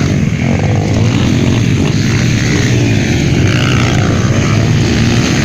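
Several 150cc motocross bike engines running hard together, their pitch rising and falling with the throttle.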